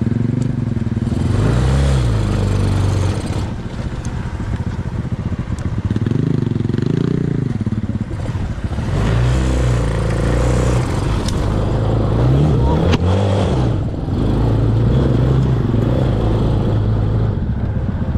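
Small off-road vehicle engine running under load, revving up and down repeatedly, with the pitch rising and falling about 2, 6, 9 and 13 seconds in.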